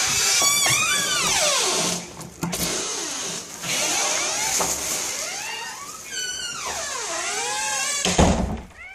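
Domestic cat crying after its owner has gone out: several long, loud meows that bend down and back up in pitch, over a hissing, scratchy noise, with a heavy thump near the end.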